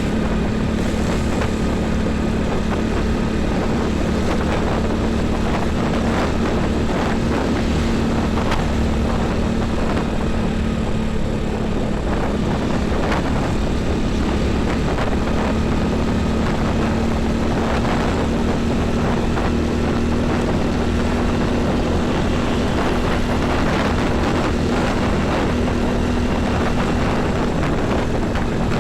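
Highway traffic dominated by heavy truck and bus engines: a steady, unbroken engine drone with tyre and road noise.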